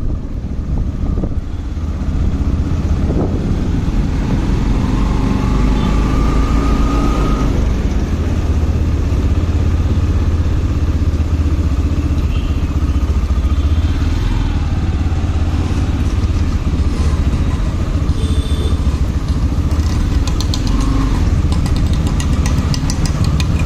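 Motorcycle being ridden: steady engine and road rumble mixed with wind noise on the microphone, with a run of faint ticks near the end.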